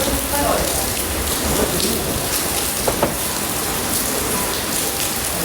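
Steady heavy rain falling and splashing on surfaces, with a couple of sharp taps about three seconds in.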